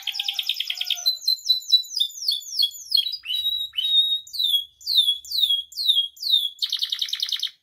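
Domestic canary singing: a rapid rolling trill, then a run of downward-sliding whistled notes about two a second, then another rapid trill that cuts off suddenly near the end.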